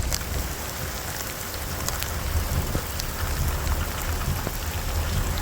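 Heavy rain falling steadily in a thunderstorm, a dense hiss with individual drops ticking close by, over a steady low rumble.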